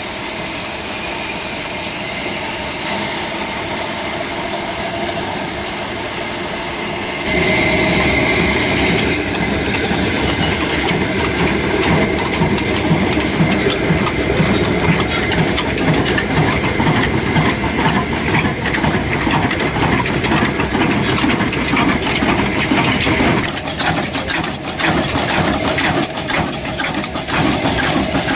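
An old 26 hp, 300 rpm stationary diesel 'black engine' running. It opens as a steady hiss; about seven seconds in, the sound turns louder and heavier, with a rhythmic beat that goes on to the end.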